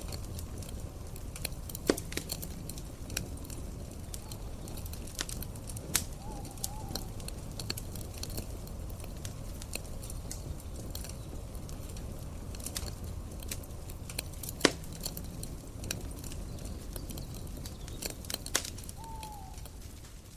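Campfire crackling steadily, with a few sharp louder pops, about four in all. A couple of short faint gliding calls sound near the middle and near the end.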